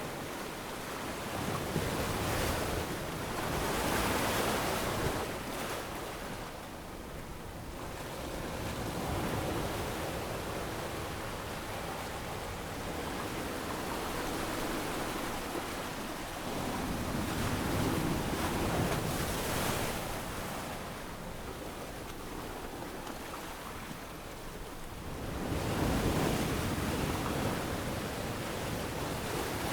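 Small waves breaking and washing up a sandy beach, the surf swelling and fading every few seconds, with some wind.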